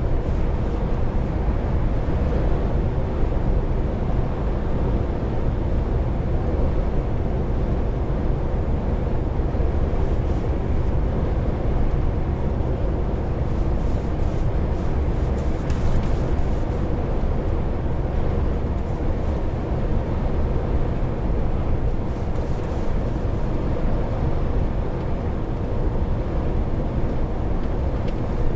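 Heavy truck driving at a steady speed, heard from inside the cab: a constant low engine drone mixed with road and tyre noise.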